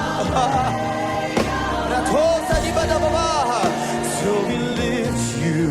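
Live worship music: a band playing sustained chords while a singer ad-libs a wordless, wavering melody over it.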